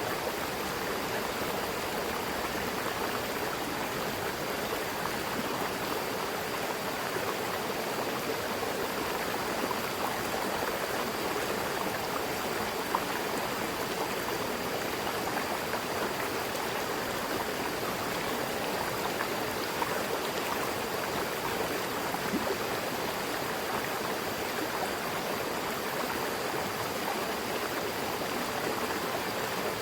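Mountain river rushing and splashing over rocks, a steady even water noise.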